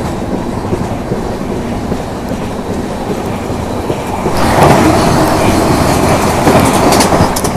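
Steady rumble and clatter of a moving train's wheels on the rails, heard from an open coach door. About four and a half seconds in, an oncoming Vande Bharat express passes close on the next track, and the sound swells into a louder rushing roar of its coaches going by.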